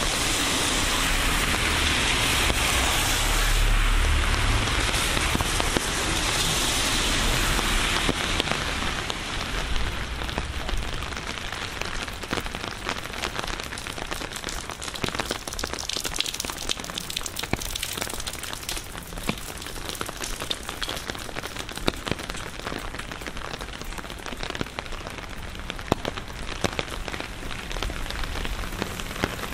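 Rain falling steadily, heavier for the first several seconds, then easing, with many separate drops clicking sharply through the rest.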